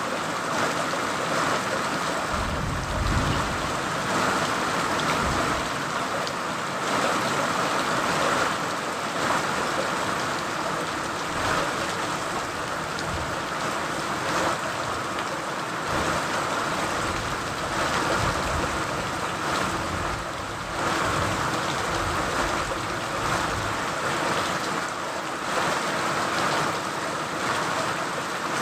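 Steady rain falling, a dense even hiss, with a brief low rumble about three seconds in.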